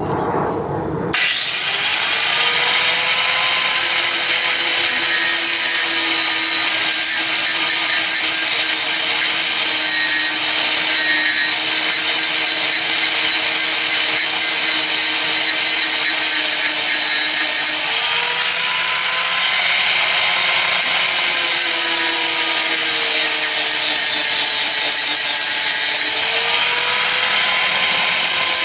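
An angle grinder grinding down a steel weld, a steady loud grinding hiss over the motor's whine. It starts about a second in, and the motor pitch sags and recovers twice as the disc is pressed into the work.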